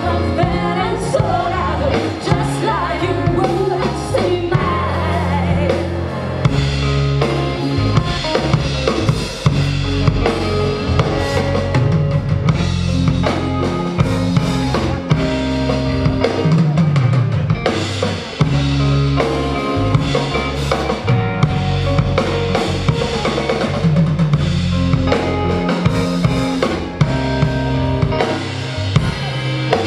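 Rock band playing live in an instrumental passage without vocals: drum kit prominent, with snare and bass drum hits over a moving bass line and other instruments.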